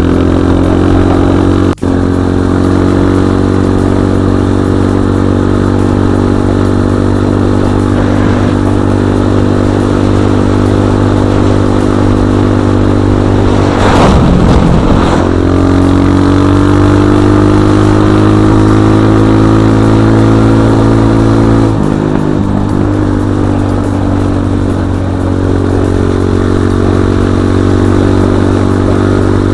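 BSE J1 enduro dirt bike engine running steadily under way, its note shifting a little with throttle, with a short burst of clattering about halfway through and a single sharp click early on.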